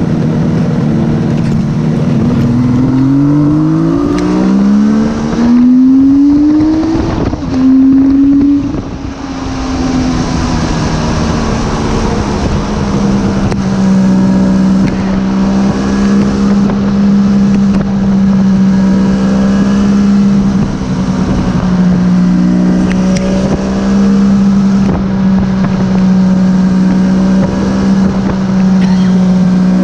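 Suzuki GT750's two-stroke three-cylinder engine accelerating through the gears, its note climbing in pitch in several steps over the first nine seconds or so, then settling to a steady pitch while cruising.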